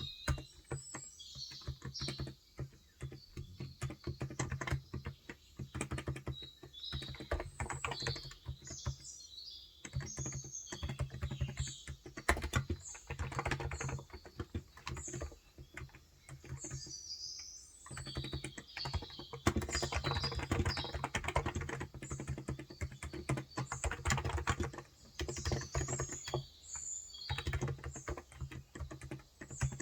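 Typing on a Cox Endeavor electrostatic capacitive (35 g) tenkeyless keyboard, fast runs of soft key strokes broken by short pauses, with birds chirping in the background.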